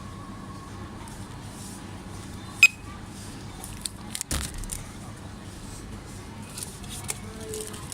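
Supermarket background hum with a sharp, ringing clink about two and a half seconds in, a dull knock a little later, and a few small clicks.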